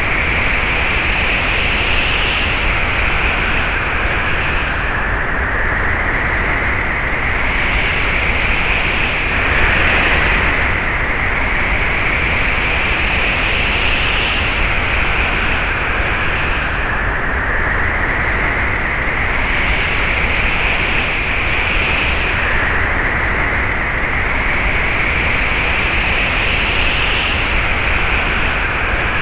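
Wind blowing as a steady rushing noise, its higher hiss rising and falling every few seconds as gusts come and go, with a slightly stronger gust about ten seconds in.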